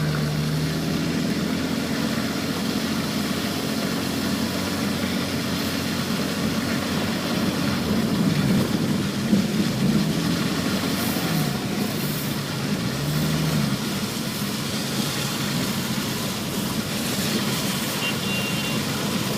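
A push car's engine running as it drives onto a wet clay infield, with the revs rising and falling several times about eight to fourteen seconds in, over a steady noise of driving.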